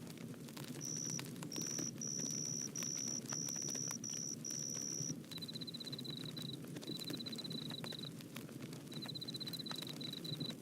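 Bonfire crackling steadily with scattered small pops. Over it runs a series of high, steady trills in short repeated bursts: a higher-pitched one for about the first half, then a slightly lower, buzzier one.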